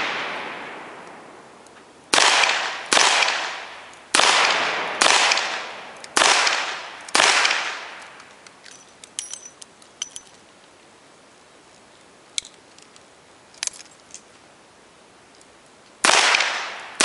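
Smith & Wesson revolver firing an IPSC course of fire, each shot a sharp crack with a long echoing tail. The echo of the opening shot fades at the start. Six more shots follow at roughly one-second intervals, then a lull with a few light clicks, and a last shot near the end.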